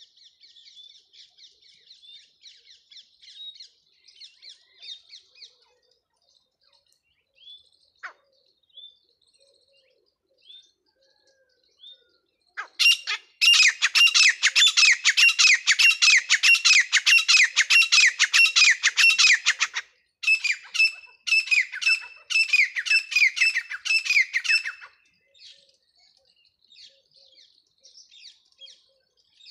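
Birds chirping faintly, then about halfway a loud, rapid run of repeated bird calls lasting about seven seconds. After a brief break a second, shorter run follows before the faint chirping returns.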